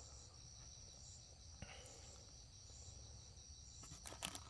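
Near silence with faint, steady high-pitched cricket chirring. A few light clicks come near the end.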